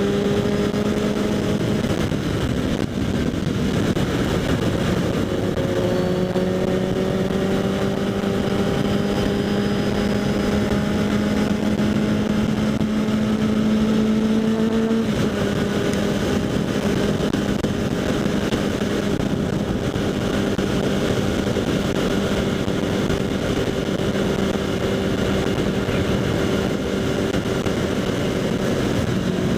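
Kawasaki Z800 inline-four through a LeoVince SBK exhaust under way, heard from a helmet chin-mounted camera with wind rush. The engine note climbs slowly with speed, drops sharply about halfway as the bike shifts up, then holds steady.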